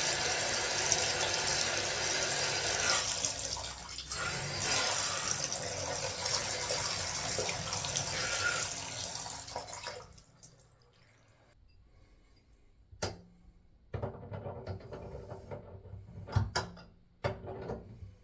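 Water running steadily from a Delta Roma bathtub faucet, shut off about ten seconds in. After that come a few sharp clicks and knocks.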